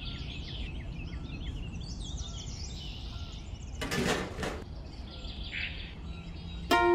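Small birds chirping rapidly over a steady outdoor background hum. About four seconds in, a brief scraping rustle as the plastic pool shell is handled on sandy ground.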